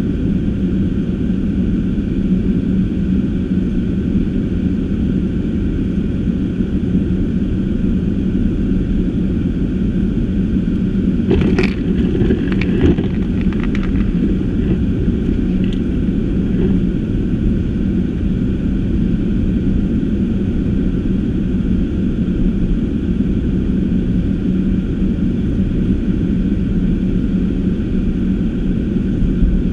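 Car being driven: a steady low rumble of engine and tyres on the road with a constant hum. A short cluster of clicks and knocks comes about twelve seconds in.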